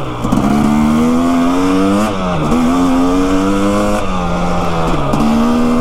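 Motorcycle engine under way, its pitch climbing slowly through each gear and dropping or jumping at shifts about two, four and five seconds in, with a steady rush of wind and road noise underneath.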